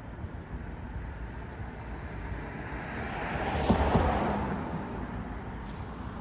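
Night city street ambience: a steady low traffic rumble, with a vehicle passing close by that swells to its loudest a little past halfway and then fades.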